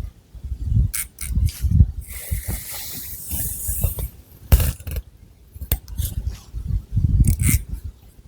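Long fingernails scratching and rubbing through thick hair on the scalp in irregular strokes, with soft low thuds, sharp scratchy strokes and a longer hiss about two seconds in.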